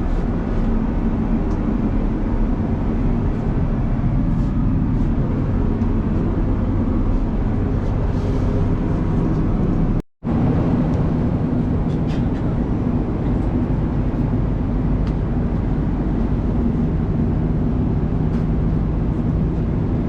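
Steady in-flight cabin drone of an Airbus A330-200, airflow and engine hum heard from inside the cabin. It breaks off for an instant about halfway through, then carries on the same.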